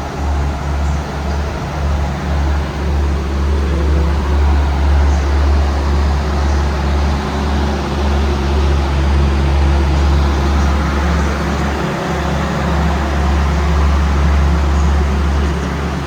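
Steady low engine hum with a broad rushing noise around a diesel passenger train, with no change in pace through the stretch.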